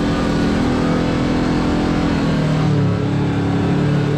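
Kawasaki Teryx KRX4 1000 side-by-side's parallel-twin engine running steadily while driving on a trail, over a constant rushing ride noise. The engine pitch dips slightly about halfway through, then holds.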